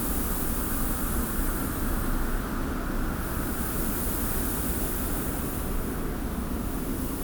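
Steady desert wind ambience: a deep rumble of wind with a high hiss of blowing sand that swells and dips a little every few seconds.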